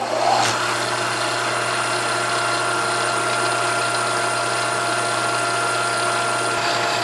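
Milling machine running steadily, a constant motor hum with a high steady whine over it.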